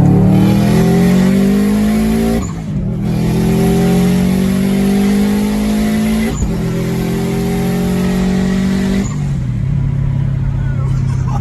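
Big-turbo EJ257 flat-four in a swapped Subaru Forester accelerating hard through the gears. Engine pitch climbs, drops at a shift about two and a half seconds in, climbs again, shifts at about six seconds and again at about nine, then holds steady. A short high chirp comes at each shift.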